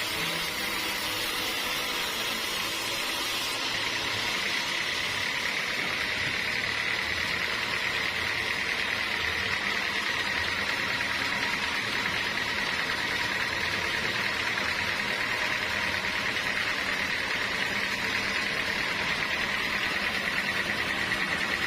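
Sawmill machinery running steadily, with a constant high-pitched whine over a continuous mechanical noise.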